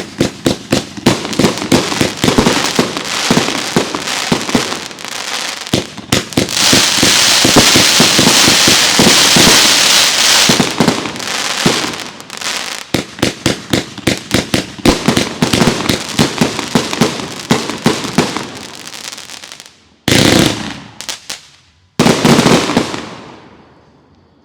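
Consumer fireworks going off in a rapid barrage of bangs and crackles, which thickens into a continuous wall of crackling for a few seconds in the middle. Near the end the barrage stops, and two last bursts fade away.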